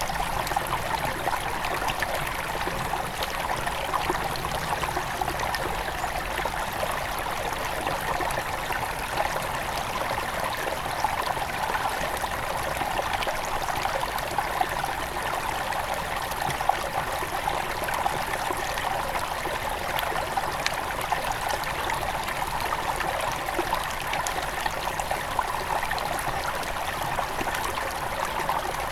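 Small forest river flowing steadily over stones at its headwaters, a continuous babbling rush with little trickles and splashes.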